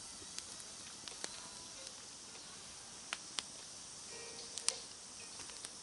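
Wood campfire crackling: scattered sharp pops, the loudest near the end, over a steady hiss.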